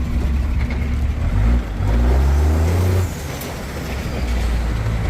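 A 3/4-ton diesel square-body pickup's engine running as it drives over a rough dirt road, heard from inside the cab. The engine pulls up in pitch for about a second and a half, then drops off about three seconds in and builds again near the end.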